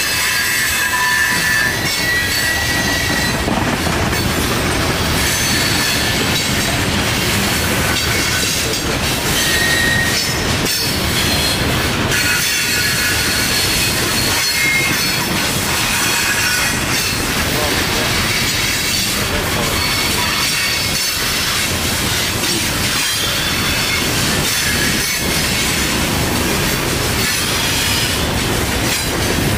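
Loaded coal hopper cars rolling steadily past, wheels clicking over the rail joints, with a few short, high wheel squeals.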